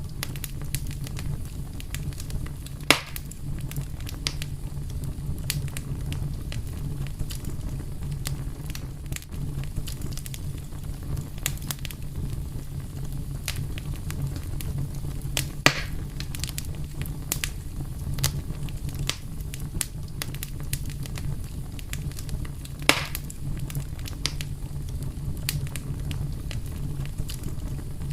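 Fire crackling: a steady low rumble under frequent small crackles. Three louder pops stand out, about 3, 16 and 23 seconds in.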